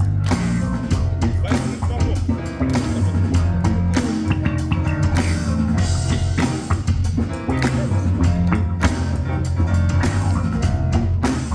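Live rock band playing, with drum kit, guitar and a steady bass line.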